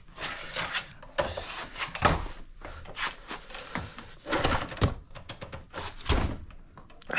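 An irregular series of mechanical clunks and knocks, roughly one a second, from hands working on a pit bike.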